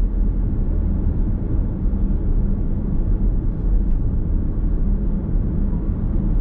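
Steady low road and tyre rumble of a car driving along, heard from inside the cabin.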